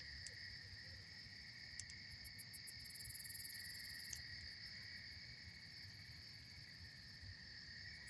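A steady chorus of night insects in two unbroken high trills, with a few small crackles and pops from a campfire, several close together about two seconds in.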